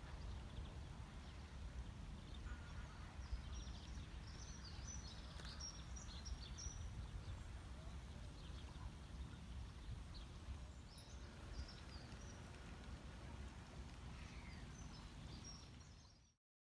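Birds chirping in short scattered calls over a low steady rumble of outdoor background noise; the sound fades out near the end.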